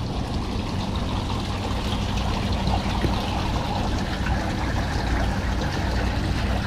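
Boat engine idling with a steady low hum, under an even hiss.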